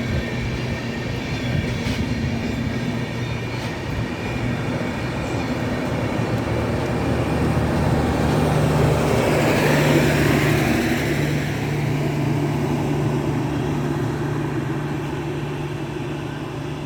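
Indian Railways superfast express train passing on the station lines, its running noise building to its loudest about ten seconds in and then slowly fading as it goes by. A steady low hum comes in about eight seconds in.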